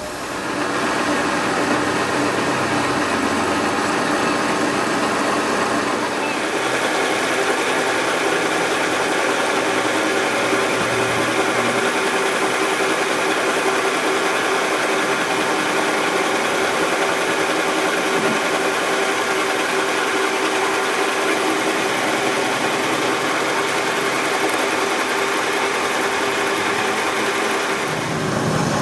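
A machine running steadily with a constant hum. The sound shifts slightly about six seconds in and again near the end.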